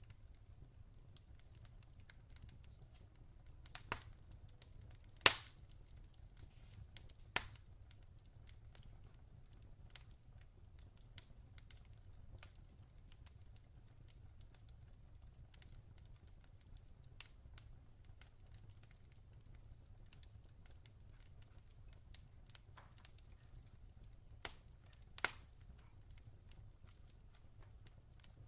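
Log fire burning with irregular crackles and pops over a low steady rumble; the sharpest pop comes about five seconds in, with others scattered through, including a pair near the end.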